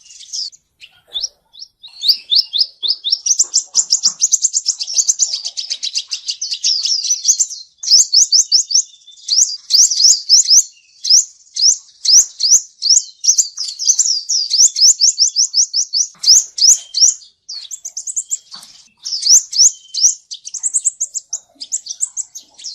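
Male sunbird singing, the bird Vietnamese keepers call the seven-colour sunbird: long runs of rapid, high sweeping notes, several a second, with short breaks between the runs. This is a song recording of the kind played as a lure to trap sunbirds.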